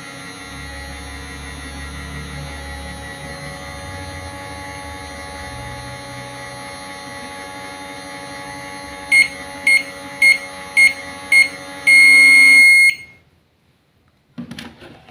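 Microwave oven running with a steady hum. Near the end come five short beeps about half a second apart and one longer beep, then it stops suddenly.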